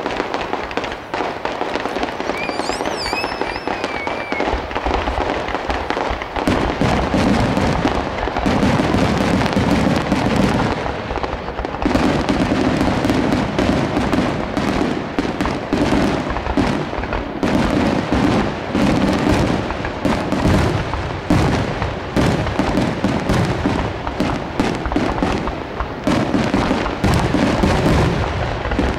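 Aerial fireworks shells bursting in a continuous rapid barrage of booms and crackles, growing denser and louder about six seconds in.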